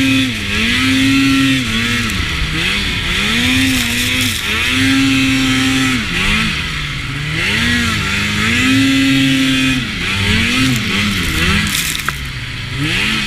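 Arctic Cat XF800 snowmobile's two-stroke twin engine under throttle. It revs up and holds a high, steady pitch for a second or two, then drops off and climbs again, about five times over.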